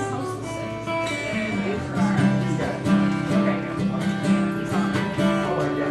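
Guitar playing. From about two seconds in, a low note repeats about twice a second under ringing higher notes.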